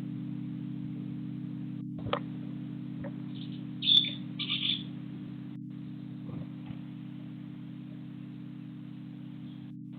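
A small bird's short high chirps, three close together about four seconds in, over a steady low hum. A sharp click comes shortly before them.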